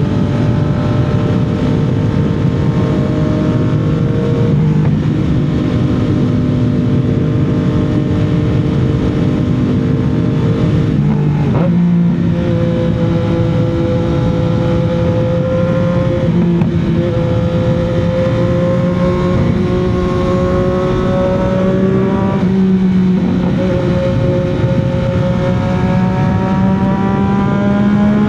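CFMOTO 675's inline three-cylinder engine pulling at highway speed over a steady rush of noise. Its pitch drifts down, then climbs again. Three brief dips in the engine note, about 11, 16 and 23 seconds in, mark throttle changes, and the pitch rises steadily near the end.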